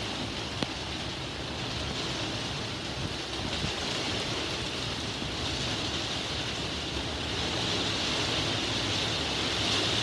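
Heavy rain pouring in strong wind, a steady hiss that swells toward the end. There is one sharp tick about half a second in.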